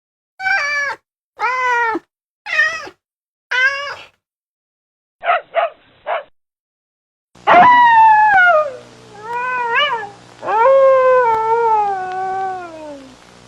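A cat meowing: four short meows, then three quick, shorter mews, then two long, loud meows that slide down in pitch.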